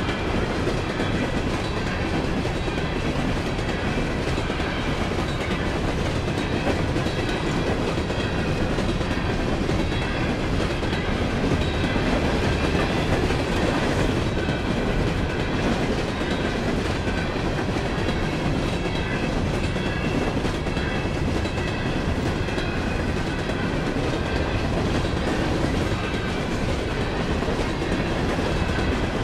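CSX freight train rolling past: a steady rumble and clatter of steel wheels on the rails, even in level throughout.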